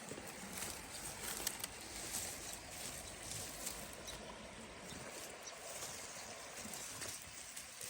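Nestling wrens making many short, high chirps over the steady rush of a creek.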